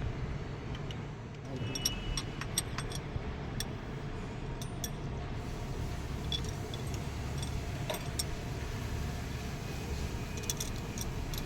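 Scattered light metallic clinks and taps of hand tools and engine parts being handled, over a steady low hum.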